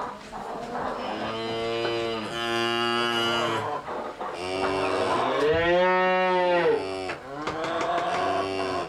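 Cows mooing: about five long moos one after another. The loudest, a little past the middle, rises and then falls in pitch.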